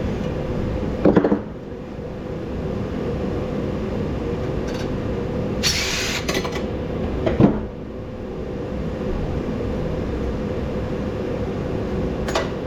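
Steady humming drone of a running heater with a few fixed tones, broken by short knocks and clatters of scrap parts being handled: about a second in, a cluster around six seconds, and a sharp knock about seven and a half seconds in.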